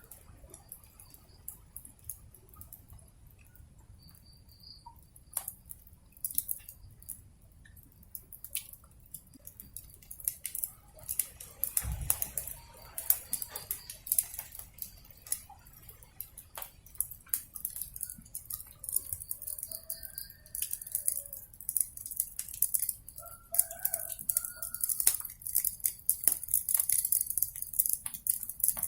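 Wood fire crackling with frequent sharp pops, the crackle growing denser in the second half, and a dull thump about twelve seconds in. A few short bird calls come through around twenty seconds in.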